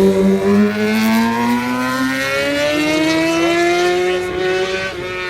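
Racing motorcycle engine under hard acceleration, its pitch rising steadily through one long gear for about three seconds, then levelling off.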